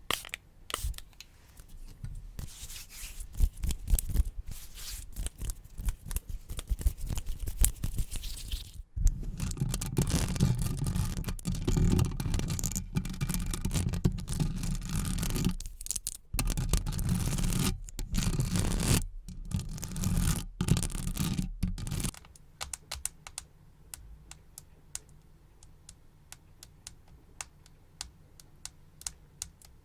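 Close-miked ASMR trigger sounds. Quick tapping and clicking comes first, then about thirteen seconds of dense, loud scratching right on the microphone with a few short breaks. Sparse faint taps follow near the end.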